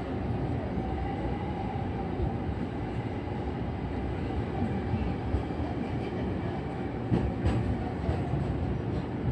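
Electric commuter train running slowly under a strong-wind speed restriction: a steady rumble of wheels and car body, with a few short knocks from the wheels over rail joints near the end.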